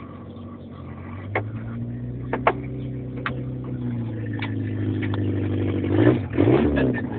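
Small car's engine heard from inside the cabin, pulling steadily and slowly gaining revs, with a few sharp knocks from the car as it goes. Near the end the revs dip and climb again.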